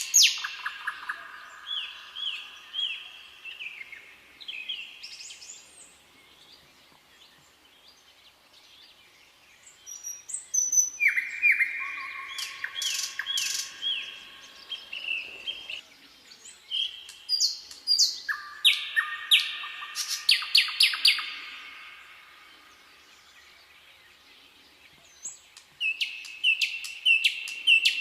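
Songbirds singing in bursts of quick repeated chirps, with quieter pauses of a few seconds between the bursts.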